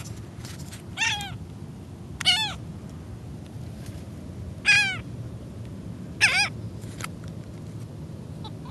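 A seagull calling four times, spaced a second or more apart, each a short harsh cry that rises and then falls away at the end.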